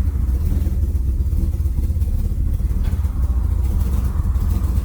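BMW E36's swapped M50B25 straight-six engine and new full exhaust running steadily while the car is driven, a deep, even drone with no clear revving.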